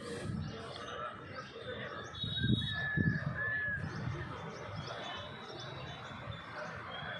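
Small birds chirping, short high chirps repeating throughout, with a clear whistled note about two and a half seconds in, over a low background rumble.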